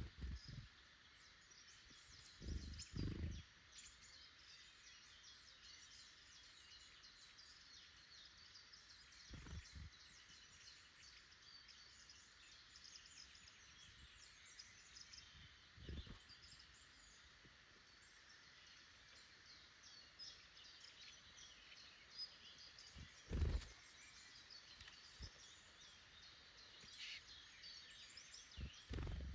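Small woodland songbirds calling and singing faintly all through, with a handful of short dull thumps close to the microphone, the loudest about two-thirds of the way in.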